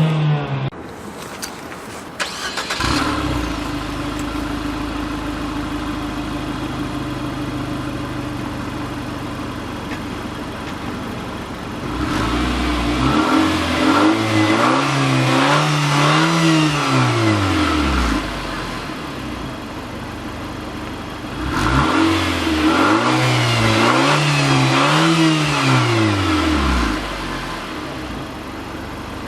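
2013 Nissan Juke Nismo's turbocharged 1.6-litre four-cylinder engine idling, then revved freely in two spells of quick blips, each several rises and falls in pitch, starting about twelve and about twenty-two seconds in. It drops back to a steady idle between the spells and after them.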